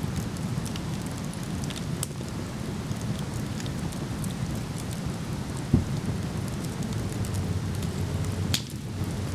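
Steady low roar of a waterfall with a wood campfire crackling and popping over it. A dull thump sounds a little past halfway, and a sharp pop near the end.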